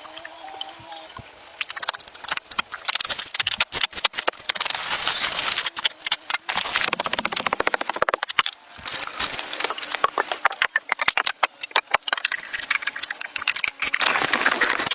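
A fast, irregular run of sharp knocks and clicks, many a second, with a quieter stretch near the start and a short pause a little past the middle.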